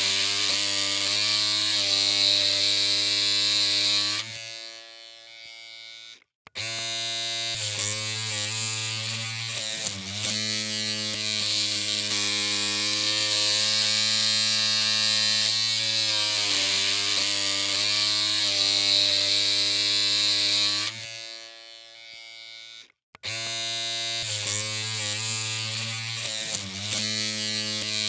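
Electric hair clippers running with a steady buzzing hum. The hum dies away twice, about four seconds in and again near twenty-one seconds, cuts out completely for a moment, then starts up again.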